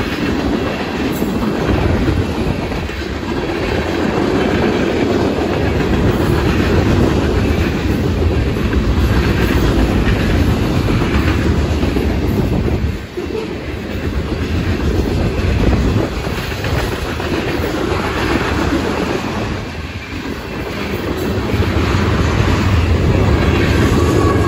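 Freight cars of a long train rolling past at speed: a steady rumble and clickety-clack of steel wheels over the rail joints, dipping briefly a couple of times.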